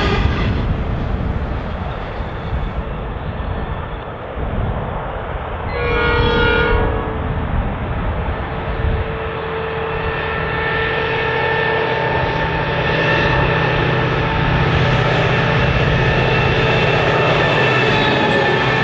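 A freight train hauled by 81 class diesel-electric locomotives approaching and passing: one horn blast about a second long about six seconds in, then the locomotives' engine drone building up as they come past near the end, over steady wheel-on-rail rumble. It opens on coal hopper wagons rolling past.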